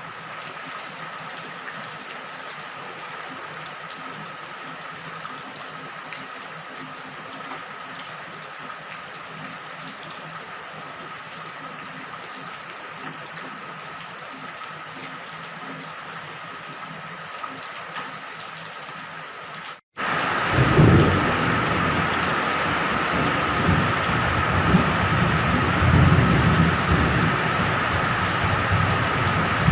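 Steady rain falling. About two-thirds of the way in, the sound cuts out for a moment and comes back as heavier, louder rain with rolling thunder rumbling underneath.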